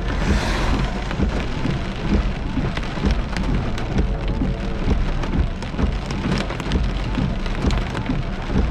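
Heavy rain pelting a moving car's windshield and roof, with a dense patter of sharp drop hits over a low rumble, and the windshield wipers sweeping. A brief surge of louder hiss comes just after the start.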